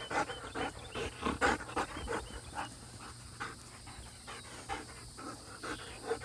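Dog panting, about three to four breaths a second, getting sparser and fainter about halfway through.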